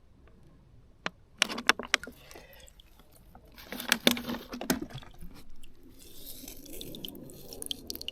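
Sharp clicks and crunching, like handling or stepping at the spring's edge. From about six seconds in, a faint steady trickle of spring water.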